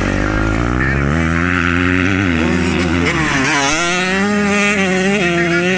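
Motocross motorcycle engines revving as they accelerate. The pitch climbs over the first three seconds, drops, then climbs again.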